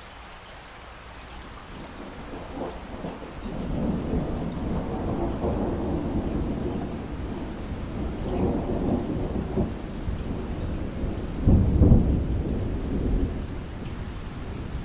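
Steady rainfall with a long roll of thunder that builds about two seconds in, rumbles in waves, and peaks in a loud, deep boom late on before easing.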